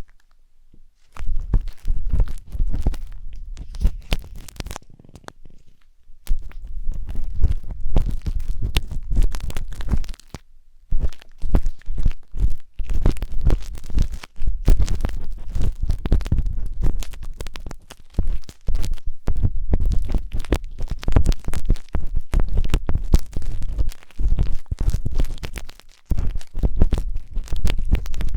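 A wooden tanghulu skewer scraping and rubbing inside the silicone ears of a 3Dio binaural microphone: close, irregular scratching strokes with deep rumbles, pausing briefly near the start and again about a third of the way in.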